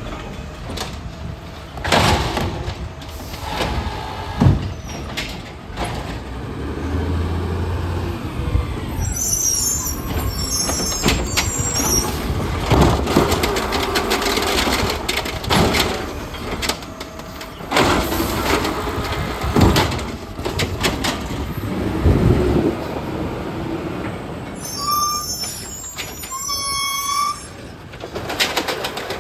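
Garbage truck at work: the engine runs under a string of clanks and bangs, with short high squeaks twice along the way.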